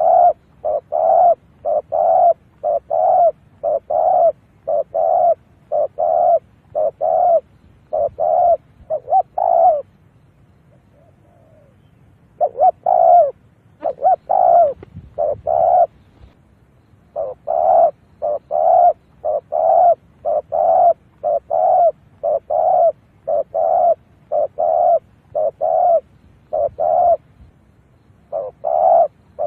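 Spotted dove cooing in a fast, even series of short coos, about two a second, with a pause of a couple of seconds about ten seconds in and a brief lull near the end.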